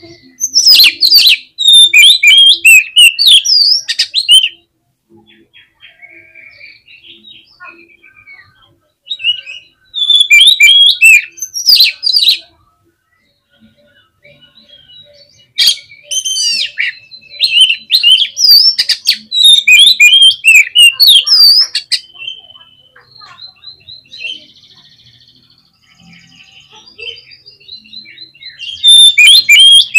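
Oriental magpie-robin (kacer) in vigorous song: loud runs of rapid, varied whistled and chirping notes in three long phrases, with quieter scattered notes in the gaps between and a fresh burst starting near the end.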